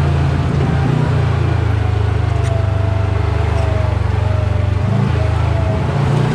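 Side-by-side UTV engine running at low, steady revs while crawling along a trail, with a short dip in the drone about a second in and again near five seconds.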